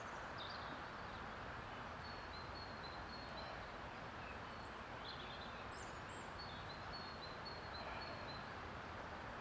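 Steady outdoor background hiss with a small bird calling in the trees: runs of thin, high chirps, repeated quickly, coming twice, once early and once later on.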